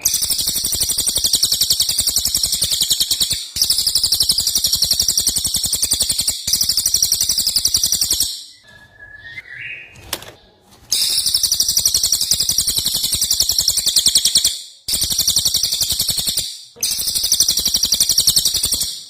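Green leafbird (cucak ijo) singing long runs of very rapid, high, shrill repeated notes in the fast-fire 'tembakan' style. The runs last two to three and a half seconds with brief breaks, and a longer pause comes around the middle.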